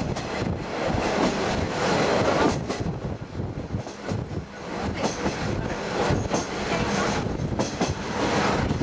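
Diesel trolley train running along the line, heard from its open-air car: steady rumbling of the wheels on the rails with irregular clacks, mixed with rushing air.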